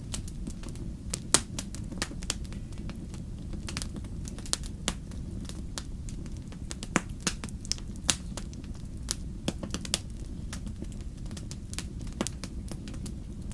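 Wood fire burning in a fireplace: a steady low rumble of flames with frequent sharp, irregular crackles and pops, a few of them loud.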